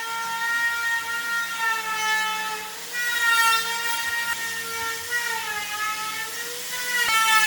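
Woodworking power tool motor running with a steady high whine whose pitch sags and recovers a couple of times as it takes load, with a short click near the end.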